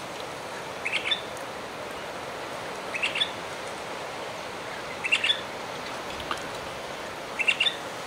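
A bird calling four times, about two seconds apart, each call a quick cluster of high chirps that rises at the end, over a steady background hiss.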